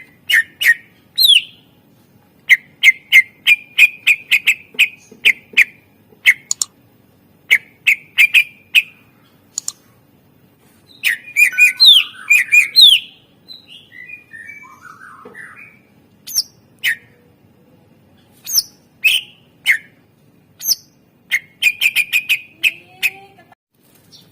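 Cucak ijo (greater green leafbird) singing in its varied, mimicking song: sharp loud chips, fast rattling trills and quick sweeping whistled notes in short phrases with brief pauses, with a denser, scratchier run of notes about halfway through.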